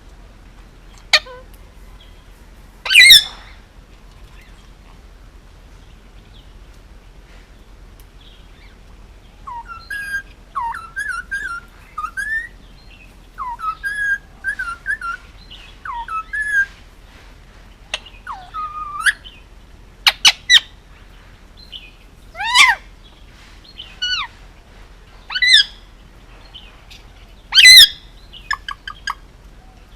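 Indian ringneck parakeet vocalizing: a single loud call about three seconds in, then a string of quick, quieter chattering notes, then a run of loud, sharp calls spaced a second or two apart near the end.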